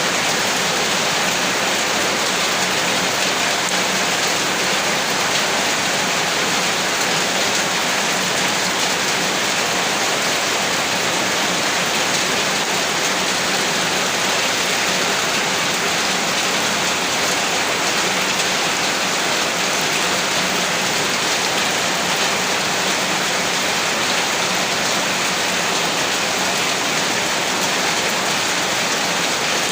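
Heavy rain falling steadily: a dense, even hiss of drops that does not let up, with no thunder.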